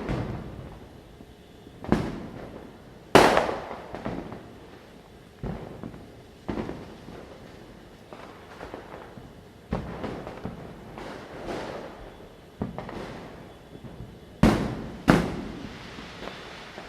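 Firecrackers bursting at irregular intervals, a dozen or so sharp bangs, each echoing away. The loudest comes about three seconds in, and two bangs follow close together near the end.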